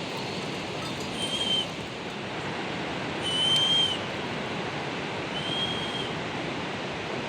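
A bird whistling a single clear note three times, about two seconds apart, each note rising slightly and then held, over a steady rushing background noise.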